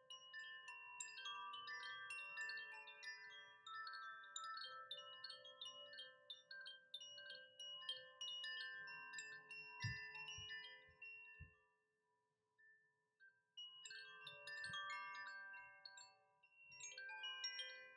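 Wind chime softly jingling, many overlapping ringing tones, with a pause of a second or two past the middle before it rings again.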